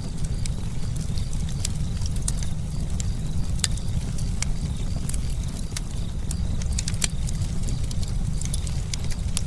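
Campfire burning, with irregular sharp crackles and pops from the burning wood over a steady low rumble.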